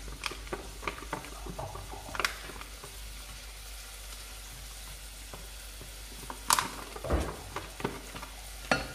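Bacon frying with onion and minced meat in olive oil in a pot, sizzling steadily while a utensil stirs and knocks against the pot, with two louder knocks, one about six and a half seconds in and one near the end.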